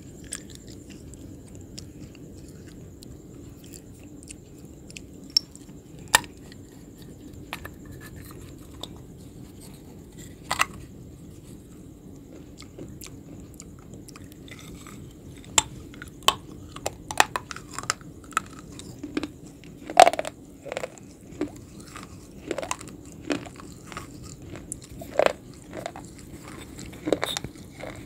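Close-miked mouth sounds of a person biting and chewing crunchy food: a few separate crisp crunches at first, then frequent crunching bites and chewing from about halfway.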